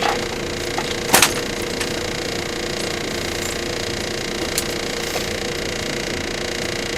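Cabin running noise of a JR 115-series electric multiple unit motor car: a steady drone of motors and wheels on rail, with a single sharp clack about a second in.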